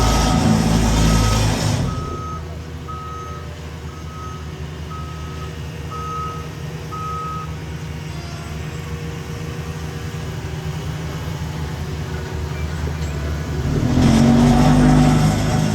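Backup alarm on heavy paving equipment beeping steadily about once a second, stopping about halfway through, over the running diesel engines of the machines. The engine noise is loud at the start, drops after about two seconds and swells again near the end.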